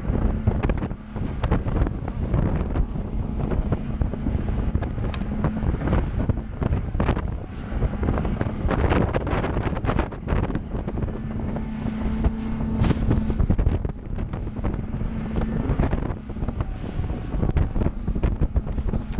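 Heavy wind buffeting the microphone on a boat running across choppy water, with repeated knocks of the hull against the waves and a steady motor hum that comes and goes underneath.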